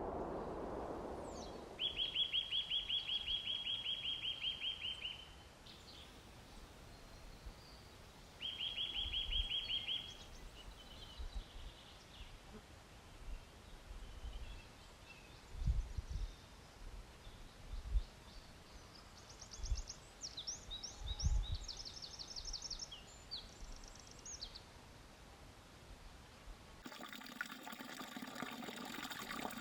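Forest songbirds calling: two fast, even trills early on, then a more varied, higher warbling song, with a few soft low thuds between them. Near the end, running water comes in as the sound of a mineral spring flowing.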